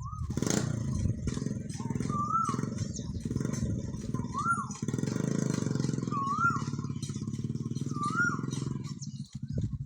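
An engine running steadily with a low, fast, even pulse, stopping about nine seconds in. Over it, a short whistled call that rises and falls is repeated five times, about every two seconds.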